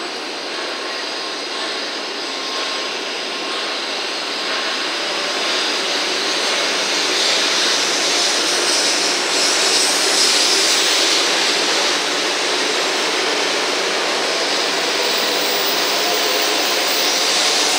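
JR West 500 series Shinkansen pulling out of the station, its running noise of motors, wheels and air rising steadily as it gathers speed past the platform.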